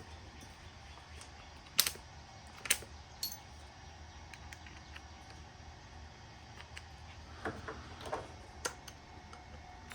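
A few sharp metal clicks and knocks from small furnace pilot-light parts and tools being handled on the bench, two louder ones about two and three seconds in and several lighter taps near the end, over a low steady hum.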